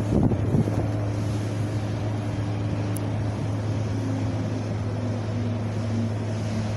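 Steady wind blowing with a deep, constant rumble, buffeting the microphone a few times in the first second.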